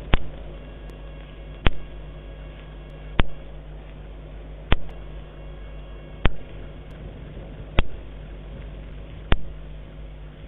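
A short, sharp click repeated at an even pace, about every one and a half seconds, over a steady low hum.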